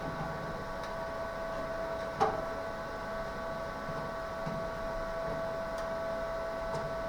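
A steady machine hum with several constant whining tones, and a single sharp click about two seconds in.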